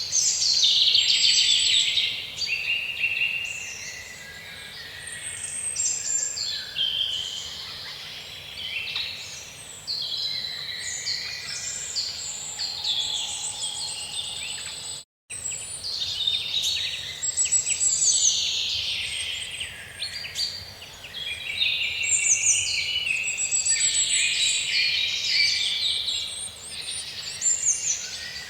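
Several songbirds singing and chirping at once, a dense run of overlapping high chirps and trills. The sound drops out for a split second about halfway through.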